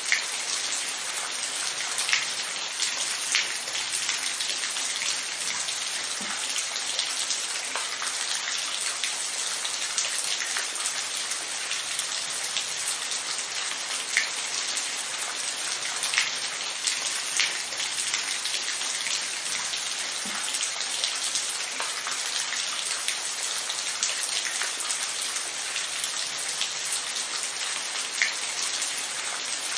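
Steady rain with a continuous hiss and scattered individual drops ticking sharply on a surface.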